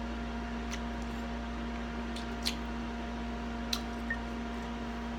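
Eating sounds: a few sharp, brief mouth clicks and smacks while chewing, over a steady background hum.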